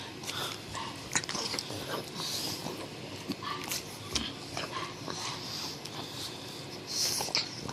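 Pug chewing a piece of chicken jerky: irregular wet chomps, smacks and clicks of the jaws.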